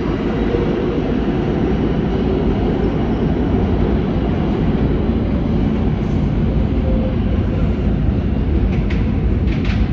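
New York City subway train running through the station: a loud, steady rumble of wheels on rail, with a few short high squeals near the end.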